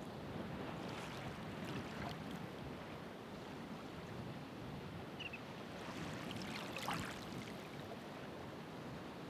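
Ocean waves breaking and washing on the shore: a steady hiss of surf, with a wave splashing in about a second in and another, louder one around seven seconds.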